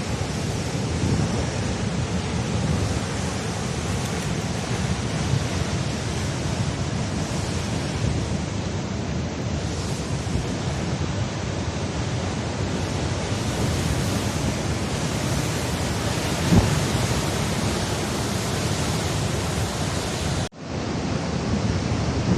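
Heavy sea surf washing against the cliffs as a steady rumble, with wind buffeting the microphone. A brief knock comes about two-thirds of the way through, and the sound drops out abruptly for a moment near the end.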